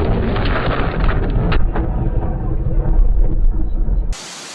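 Loud, deep rumble of thunder right after a close lightning strike, with a sharp crack about a second and a half in. It cuts off abruptly about four seconds in to a quieter steady hiss.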